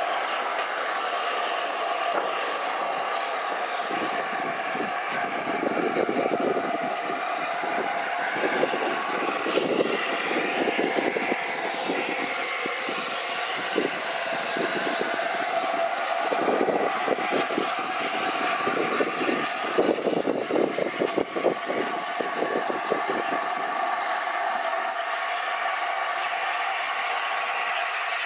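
Three-cylinder LNER A4 Pacific steam locomotive 60007 Sir Nigel Gresley running light engine: a steady hiss of steam throughout, with a run of quick beats from about four seconds in that fades out a few seconds before the end.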